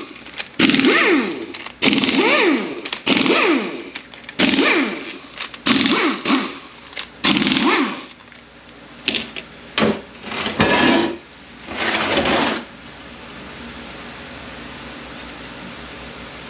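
A power ratchet spinning out the 12 mm oil-pump bolts of an A650E automatic transmission. It comes in about a dozen short runs over some twelve seconds, each one rising and falling in pitch as the motor spins up and slows.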